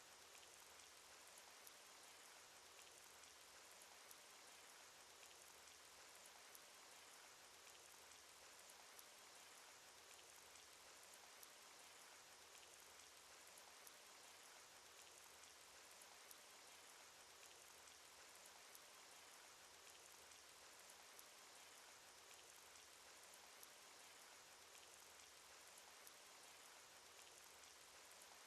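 Cartoon rain sound effect: faint steady rain hiss with scattered drops ticking through it.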